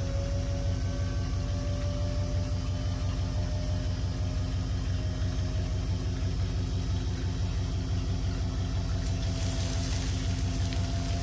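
Engine running steadily at idle, with a faint whine that slowly rises in pitch; a hiss comes in near the end.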